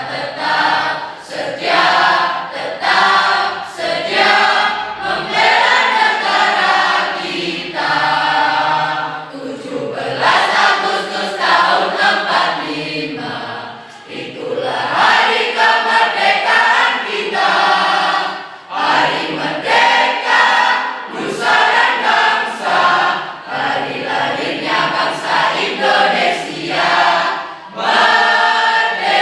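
A high-school class choir singing a song together, in sustained sung phrases with short breaks between them about a third, a half and two-thirds of the way through.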